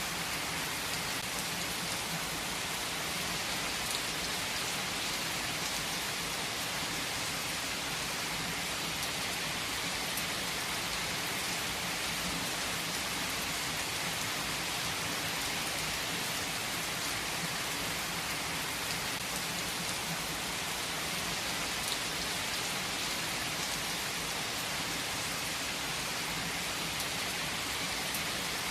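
Heavy rain falling steadily, drops pattering on surfaces, with a few sharper drop ticks now and then.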